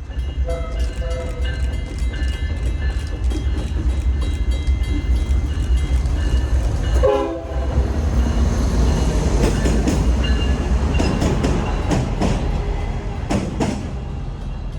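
Diesel locomotives (MBTA F40PH-2C and Norfolk Southern ES40DC) passing, with a steady deep engine rumble and wheels clicking over rail joints. The horn sounds in the first few seconds, and again briefly near the middle.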